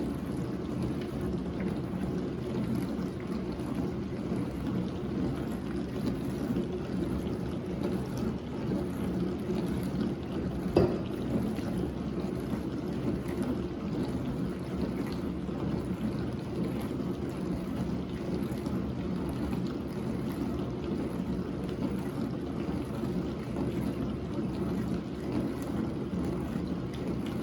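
Whirlpool WDF310PAAB4 dishwasher running its diagnostic test cycle: a steady pump-motor hum with water moving inside. A single knock comes about eleven seconds in.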